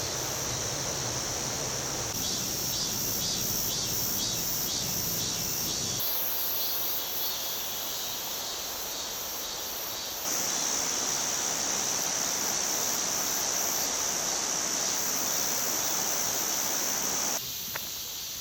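Insects chirring in a steady high-pitched chorus, pulsing in one stretch; the sound changes abruptly several times, as if across several short cuts.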